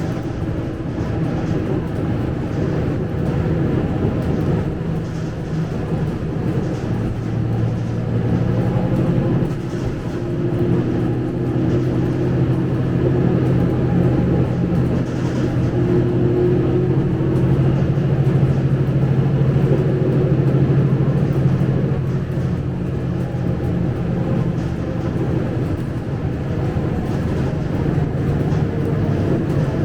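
Scania K250UB bus's diesel engine running while the bus is under way, heard from inside the cabin. It is a steady drone that shifts to a lower, stronger note about seven seconds in and eases again a little past twenty seconds.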